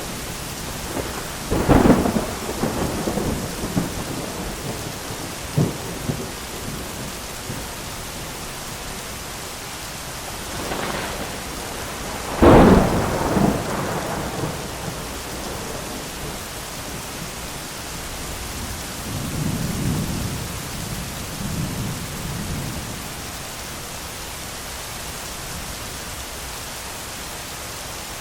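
Thunderstorm: steady rain with thunder. A sharp clap about two seconds in and a louder crack about twelve seconds in each trail off into rumbling, and a lower, softer rumble follows around twenty seconds in.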